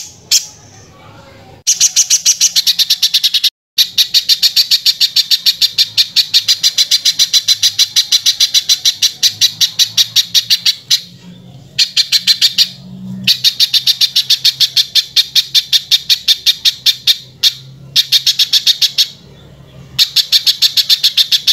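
Spiderhunter (pijantung) singing its harsh song: long runs of rapid, evenly repeated rough notes, several a second, broken by short pauses.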